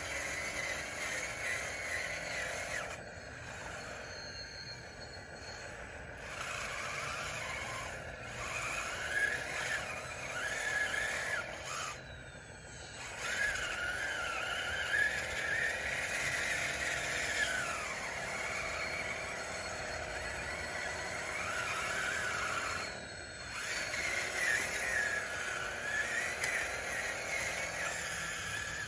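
Radio-controlled model bulldozer's electric drive motors and gears whining, the pitch rising and falling as it speeds up and slows, with a few brief pauses.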